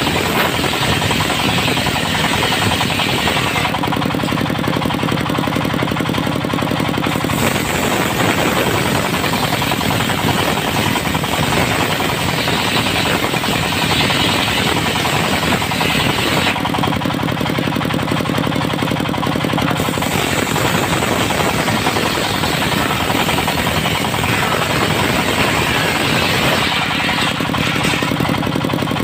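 A loud engine-driven machine running continuously with a rapid, coarse rattle; a steadier low hum comes in under it three times.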